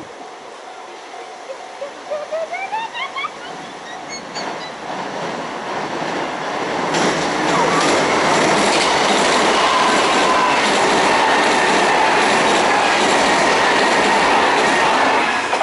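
A Kintetsu Minami-Osaka Line electric train approaches and passes close by. Its noise builds from about six seconds in to a loud steady rush, with wheels clicking over the rail joints and a faint falling whine, then drops away at the very end. About two seconds in, before the train is near, there is a quick run of short rising chirps.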